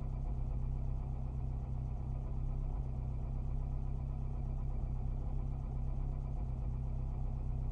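Steady low hum of a car engine idling, heard from inside the car.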